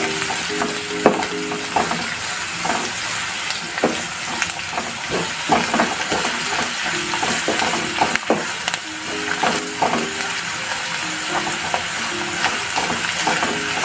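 Onions frying in hot oil in a kadhai, sizzling steadily, while being stirred, with frequent short scrapes and knocks of the stirring utensil against the pan.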